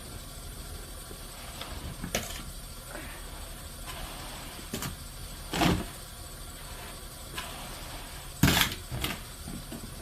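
Long-handled broom sweeping snow: about six short brushing strokes, the loudest about halfway and near the end, over a steady low rumble.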